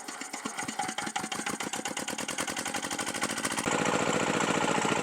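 Xiantan 6 hp single-cylinder diesel engine being hand-cranked, its beats coming faster and faster, then catching about three and a half seconds in and running steadily and louder. This is its first start after a new cylinder liner and piston were fitted.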